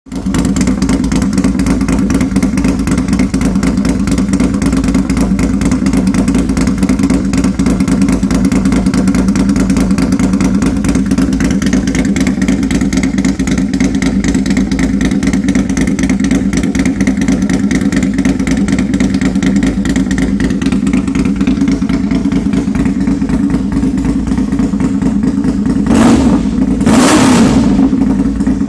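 Big-bore 800cc Kawasaki KFX700 ATV V-twin engine with an in-frame exhaust, idling steadily, then revved twice in quick succession near the end.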